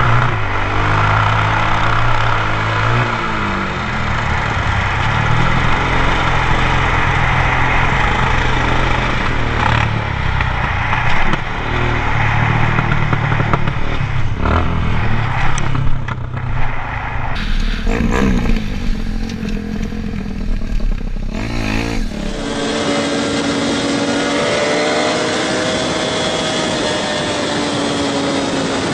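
Motorcycle engines running and revving in several clips spliced together, the sound changing abruptly at the cuts. There are a few brief sharp knocks in the middle stretch, and a steadier engine drone near the end.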